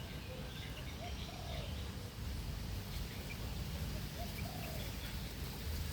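Wild birds calling: two short pairs of soft, low, arched notes about three seconds apart, with faint high chirps, over a steady low rumble.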